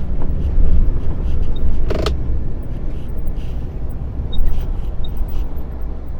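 Lorry driving along: a steady low engine and road rumble, with one brief sharp sound about two seconds in.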